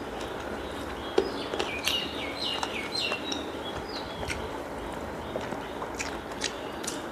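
A bird sings a quick run of short chirping notes, some stepping down in pitch, for about three seconds starting a second in. Behind it come scattered soft clicks and squelches of a hand mixing rice and chicken curry on a plate while eating.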